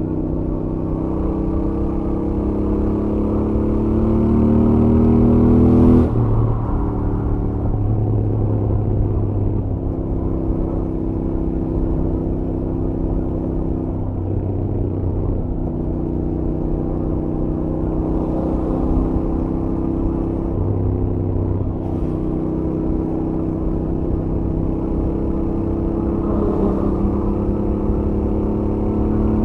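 Royal Enfield Interceptor 650's stock parallel-twin engine and exhaust at highway speed. The revs climb for about six seconds, then drop sharply at an upshift, followed by several more dips and rises in revs with steady cruising between.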